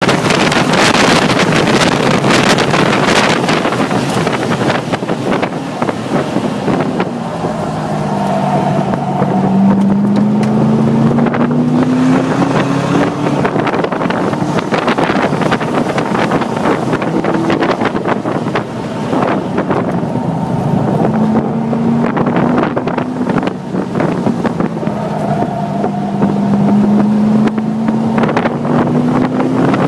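Car engine running hard at speed on a racetrack, with heavy wind noise on the microphone. The engine's pitch climbs slowly twice as the car accelerates, about a third of the way in and again near the end.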